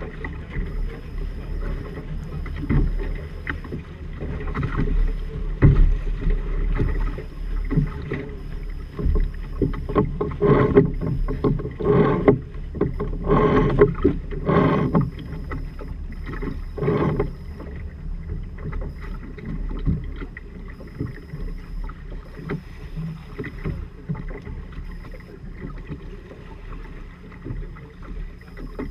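Water rushing and splashing along the hull of a Firefly 26 trimaran under sail, with wind buffeting the microphone. The splashing grows heavier for several seconds in the middle, then settles.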